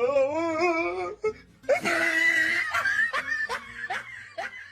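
A person laughing loudly: a wavering opening, a loud shrieking burst, then a run of short repeated laughs that fade out near the end.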